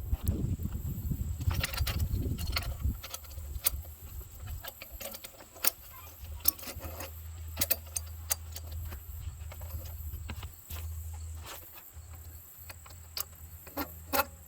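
Scattered light metallic clicks and clinks of hand tools being handled, over a low steady rumble that is louder for the first few seconds.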